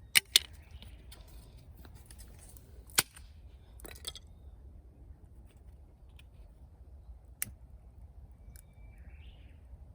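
Dry firewood cracking: a handful of sharp, separate snaps, two close together at the start, then single ones about 3, 4 and 7 seconds in.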